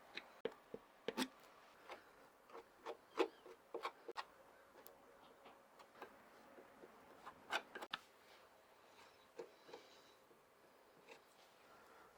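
Faint, irregular light taps and clicks of handwork with small tools or parts, a little louder near the start and again about two-thirds of the way in, over a low hiss.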